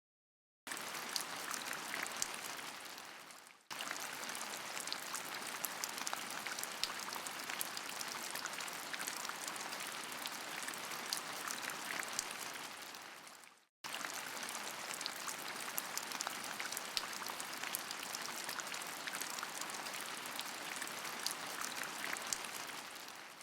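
Steady rainfall, a dense hiss of falling rain with many separate drops ticking through it. It comes in three joined stretches, broken by a brief silence about half a second in, a sudden cut near 4 s, and a fade to silence near 14 s.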